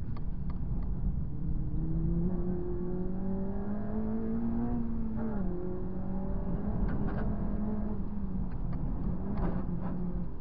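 Honda Civic Type R FD2's K20A inline-four heard from inside the cabin, pulling hard on track: its note climbs steadily for the first few seconds, dips sharply about five seconds in, then holds fairly steady. A few short clicks and knocks come in the second half.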